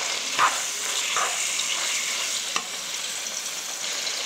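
Chicken pieces and sliced onion sizzling in hot butter ghee in a nonstick wok on high heat, with a few short scrapes of a spoon stirring them, the loudest about half a second in.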